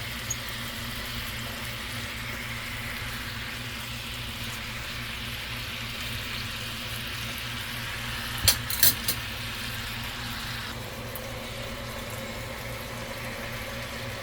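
Marinated chicken sizzling steadily as it fries in a hot pan, its glaze cooking down. A few sharp clicks of a utensil against the pan about eight and a half seconds in.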